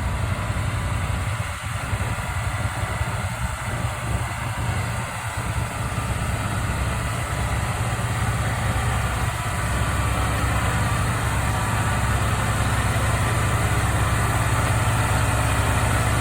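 An engine idling steadily with a low, even note, getting slightly louder about two-thirds of the way through.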